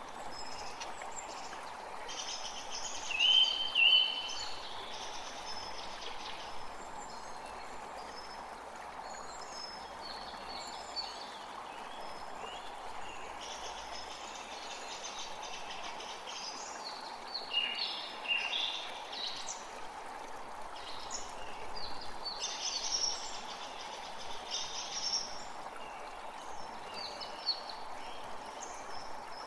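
A forest creek running steadily, with several songbirds singing and calling over it; one loud, clear whistled call stands out about three seconds in.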